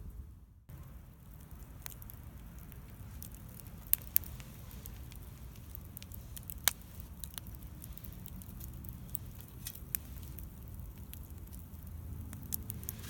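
Wood bonfire crackling: scattered sharp pops and snaps over a low steady rumble, with the loudest snaps two close together about four seconds in and another near seven seconds.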